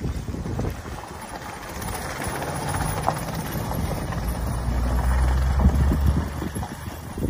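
A motor vehicle's engine running close by, growing louder through the middle and fading near the end as it passes, with wind rumbling on the microphone.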